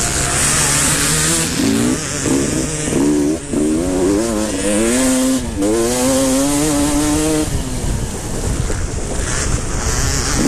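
Motocross motorcycles racing, their engines revving up and dropping back again and again as the riders work the throttle and shift gears.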